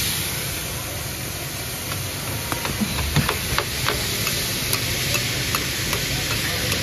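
Mutton liver frying on a hot tawa griddle with a steady sizzle. From about two and a half seconds in there is a run of sharp taps and clicks, the metal spatula stirring and striking the griddle.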